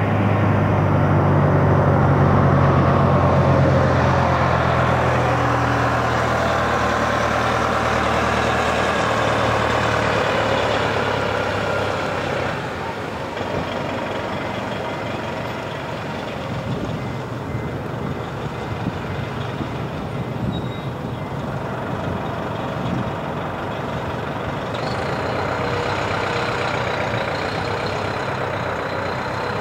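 Heavy engine running loudly and steadily, with a low hum that drops away about twelve seconds in, leaving an even engine noise.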